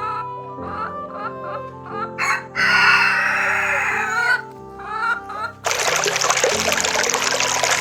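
A rooster crows once, for almost two seconds starting about two and a half seconds in, with shorter chicken clucks around it, over background music. A steady rushing noise sets in a little before six seconds.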